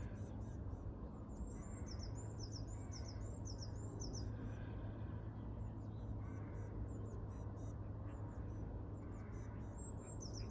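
Birds singing: runs of quick, high, hooked chirps in the first few seconds and again near the end, with fainter lower calls between them, over a steady low hum.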